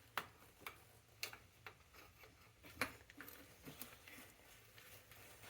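Faint, scattered clicks and light knocks of hand tools and bike parts being handled, a few irregular taps with the loudest near the middle.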